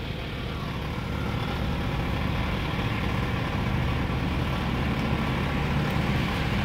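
Police car's engine idling close by: a steady low hum.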